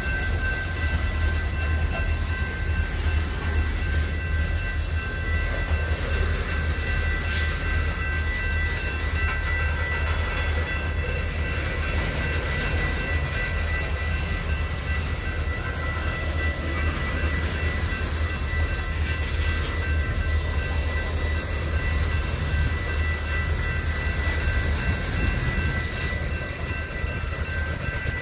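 Train rolling by: a steady low rumble with a steady high-pitched whine over it.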